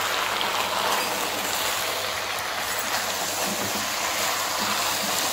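Potato and aubergine pieces sizzling steadily as they fry in oil over high heat, stirred in the pot with a spoon.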